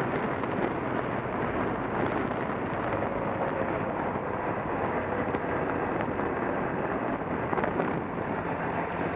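Motorcycle running at a steady cruise, its engine faint under a steady rush of wind and road noise on the rider's microphone.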